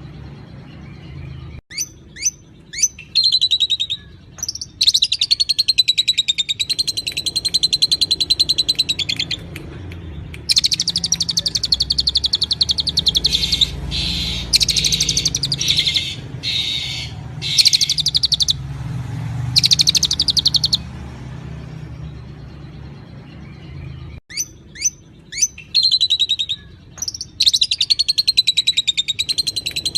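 Songbird singing: a few short upswept chirps, then long, rapid, high-pitched trilling phrases with brief pauses. The same run of chirps and trills starts over about 24 seconds in, over a steady low hum.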